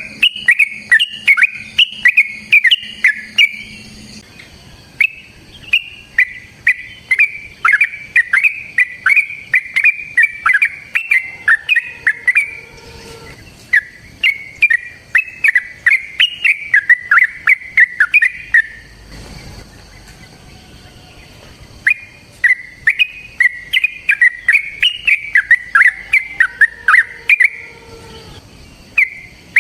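Yellow-vented bulbul (trucukan) singing long, rapid runs of short chattering notes in phrases several seconds long. There is a pause of a few seconds past the middle before the song picks up again.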